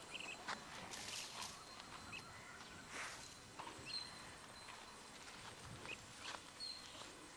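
Quiet outdoor ambience: faint rustling, soft steps and a few short, high bird chirps.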